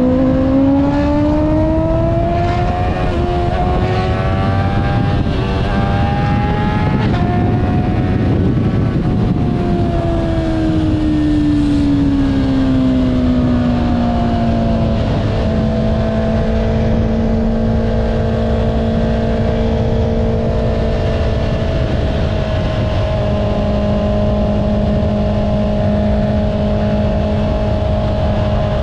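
Honda CBR650R's inline-four with an Akrapovic exhaust under way. The engine note rises as it accelerates over the first few seconds, holds, then falls back as the throttle is eased, and settles into a steady cruise for the second half, over a constant rush of wind noise.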